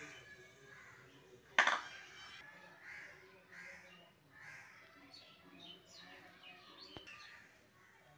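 Birds calling over and over in the background, with one short, loud, harsh sound about one and a half seconds in.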